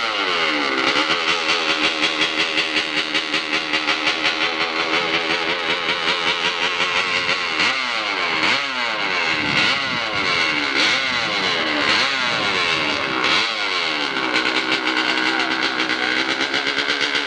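Competition hillclimb motorcycle engine running hard, held at a steady high pitch, with a run of quick throttle blips rising and falling in pitch about halfway through.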